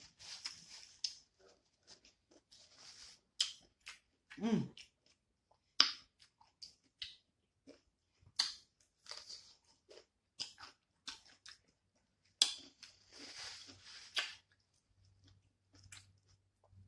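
Close-up crunching and wet, open-mouthed chewing of a raw cucumber slice dipped in sauce, with sharp crunches here and there. About four and a half seconds in there is a brief low vocal sound that falls in pitch.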